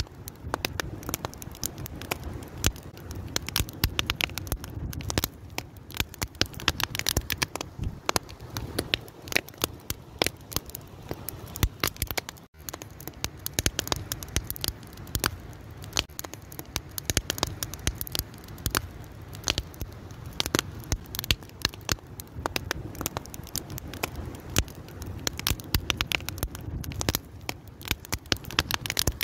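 A fire burning with dense, irregular crackling and popping over a low steady rumble. The sound drops out for an instant a little before the halfway point.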